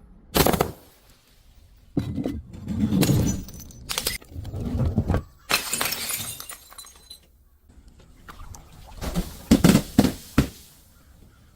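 Glass bottles being crushed and breaking: a series of separate crunching, shattering bursts a second or two apart, with quieter gaps between them.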